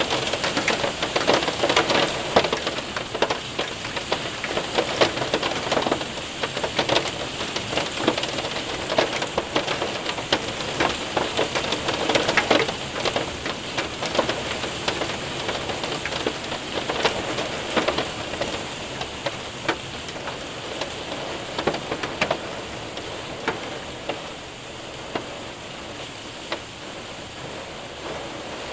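Hail and rain hitting a window and roof: a dense hiss of rain with many sharp ticks of hailstones striking. It eases off somewhat in the last few seconds.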